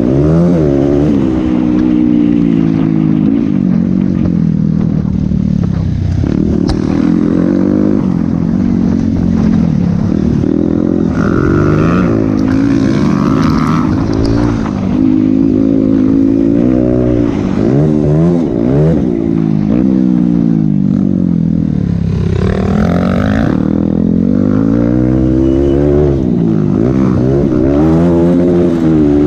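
Motocross bike engine revving up and easing off over and over, its pitch climbing and dropping every second or two as the throttle is opened and closed.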